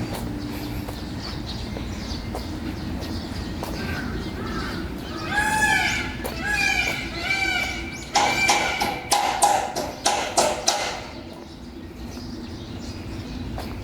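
An animal calling: three or four short calls that rise and fall in pitch, then a quick run of sharp, clicking squawks that stops after about three seconds.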